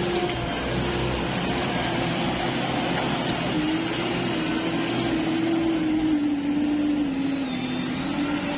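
Heavy diesel engine running hard at high revs with a steady drone. Its pitch wavers slightly and sags a little near the end.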